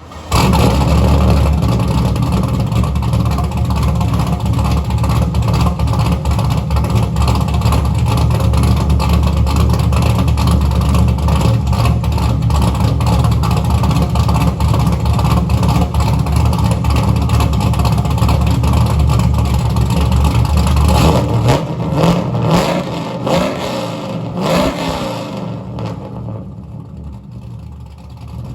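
An LS-swapped V8 with a Truck Norris camshaft starting for the first time on no tune: it catches suddenly and runs at a steady fast idle. About twenty seconds in the revs rise and fall a few times, then the sound dies down near the end.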